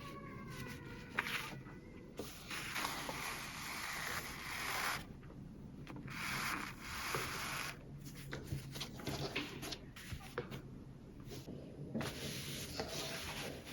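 Cloth rustling and rubbing in repeated bursts with short pauses between, as fabric is handled and worked.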